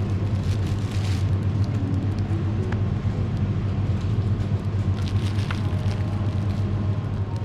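Car driving, heard as a steady low engine and road hum, with scattered light clicks and crackles on top.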